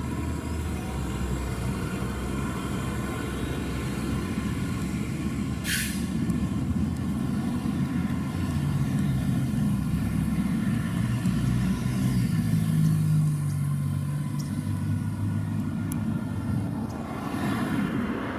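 Fire truck's diesel engine running and pulling away, its note rising and holding about midway, with a short burst of air-brake hiss about six seconds in.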